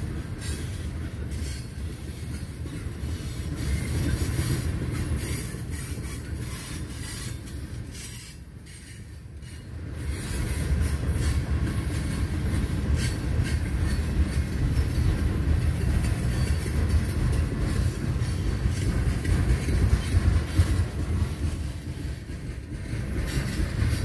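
Freight train cars (tank cars, then autoracks) rolling past, their steel wheels rumbling and clicking over the rails. The sound drops briefly about eight seconds in, then picks up again.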